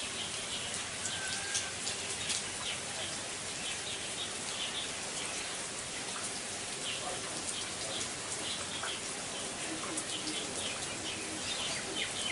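Steady rain falling, with many single drops ticking close by and scattered short bird chirps over it.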